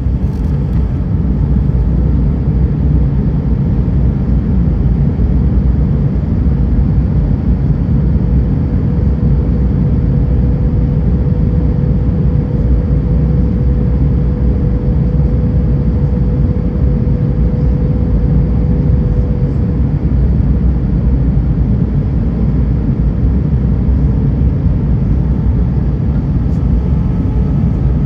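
Steady low roar of engine and airflow noise inside an Airbus A320's cabin in flight. A faint steady whine is heard through the middle of it.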